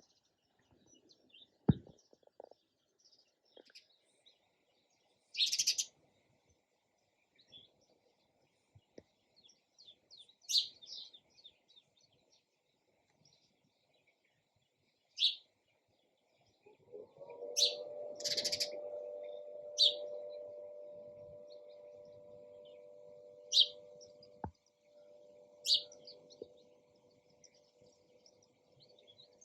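Sparrows chirping: short, sharp single chirps every few seconds. A little past halfway a steady low hum sets in and slowly fades.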